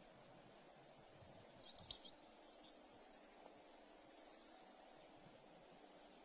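A bird gives one short, sharp, high call about two seconds in, and fainter calls follow, over a faint steady outdoor background.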